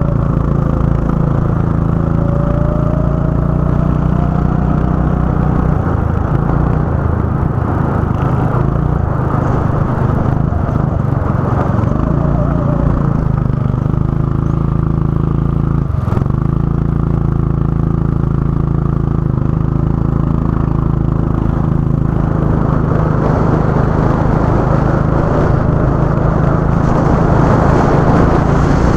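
Go-kart engine running hard, its pitch stepping up and down as the kart accelerates and slows around the track, with a brief sudden drop about two-thirds of the way through.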